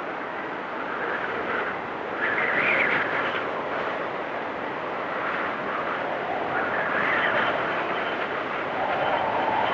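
Blizzard wind blowing steadily, with gusts that swell into a whistling howl about two seconds in and again around seven seconds, and a lower moan building near the end.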